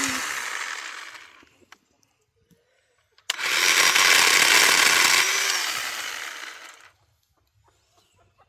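Worx 10-inch battery-powered chainsaw run in trigger bursts: one run winds down over the first second or so, then after a short gap it starts sharply a little over three seconds in, runs about two seconds and winds down again.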